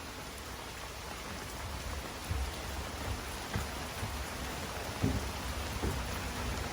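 Steady rain falling, with a few soft, low thumps scattered through it.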